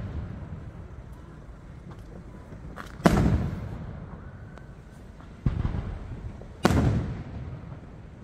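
Aerial firework shells bursting: three loud bangs, the first about three seconds in and two more a second apart a couple of seconds later, each trailing off in a rumbling echo.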